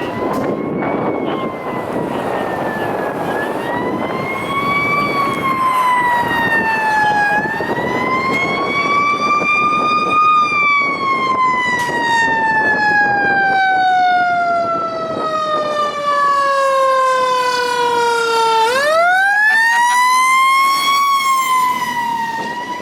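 Fire engine siren on a 2006 Pierce Enforcer pumper responding: the tone rises and falls several times, then slides down slowly for about eight seconds and winds sharply back up near the end. The truck's engine and road noise rumble underneath, strongest in the first half.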